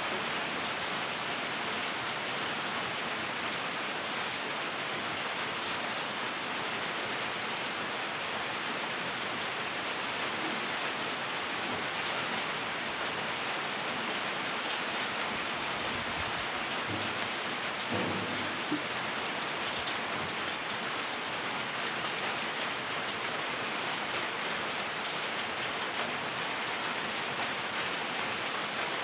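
Steady rain falling, an even hiss throughout, with a brief low rumble a little over halfway through.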